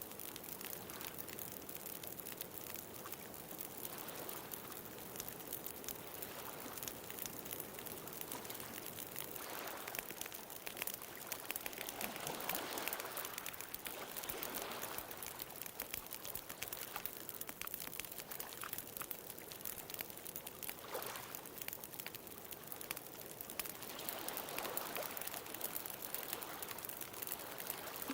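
Wood bonfire crackling with many small, quick pops over a steady wash of ocean waves. The waves swell a few times, most strongly around the middle and again near the end.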